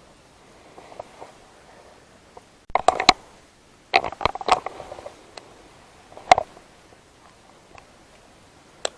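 Several short bursts of sharp clicks and light knocks: a quick cluster about three seconds in, a longer rattling run about a second later, a single knock past the middle and another near the end.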